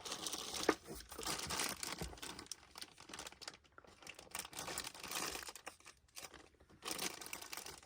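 Packaging being opened by hand: irregular crinkling and tearing with scattered small clicks, pausing briefly a couple of times.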